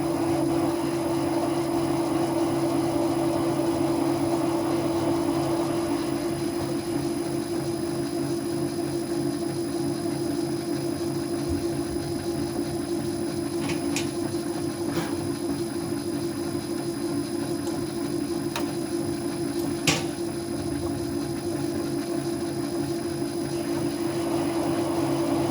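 An electric motor drives a cutter trimming a valve guide down to height in an Oldsmobile V8 cylinder head. It runs as a steady, even hum at constant speed. A few light metallic clicks come in the second half, the sharpest about twenty seconds in.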